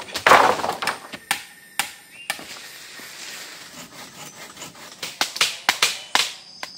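Irregular sharp knocks and thuds, about ten in all, with rustling noise between them and a cluster of knocks near the end.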